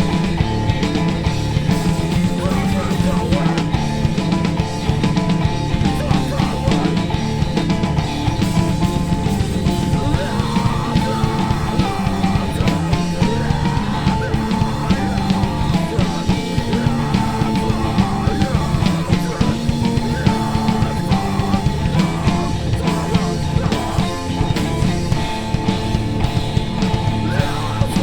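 Live rock band playing a song at full volume: guitars over a drum kit, with fast, steady drum hits.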